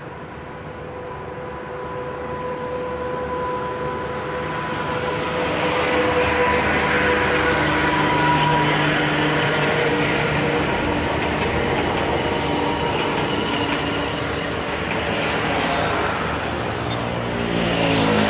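Passenger train passing, its rumble and wheel noise building a few seconds in and staying loud through the rest. A steady high tone sounds through the first half, and a motor scooter passes close near the end.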